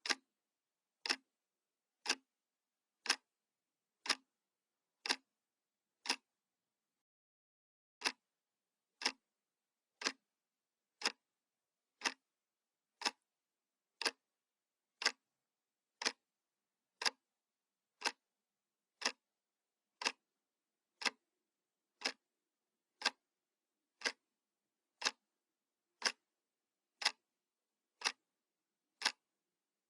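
Analog clock ticking, one sharp tick each second, with one tick skipped about seven seconds in.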